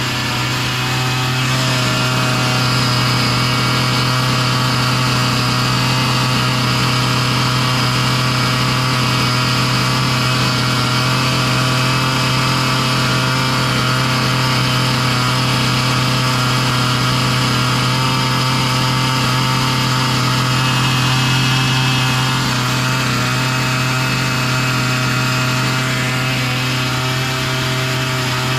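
Husqvarna 445 two-stroke chainsaw engine running steadily at a fast idle, with small shifts in pitch. It is idling way too fast, a sign of the idle setting being off.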